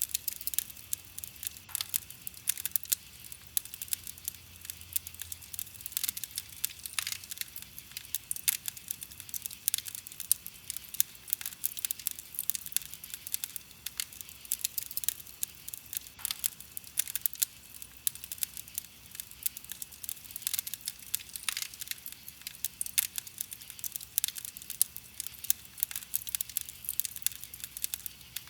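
Wood campfire crackling, with a steady run of irregular sharp pops and snaps.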